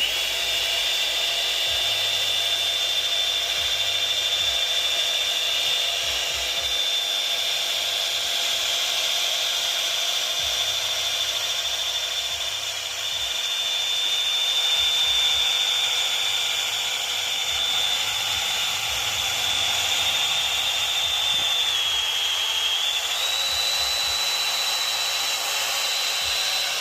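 Rotary polisher running at a low speed setting with a steady high whine, driving a 500-grit Mirka Abralon sanding pad over a whitewall tire wetted with soapy water. Its pitch dips briefly about three quarters of the way through, then settles slightly higher.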